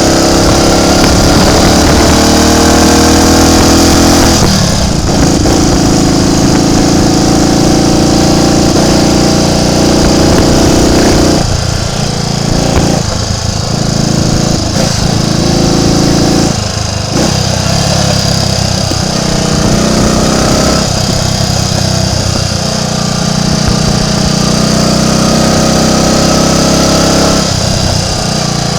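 Triumph Tiger Cub's single-cylinder four-stroke engine running on the move, rising in pitch as it accelerates, with a break about four and a half seconds in like a gear change. Midway it drops off several times in short dips before picking up again, and it rises once more near the end.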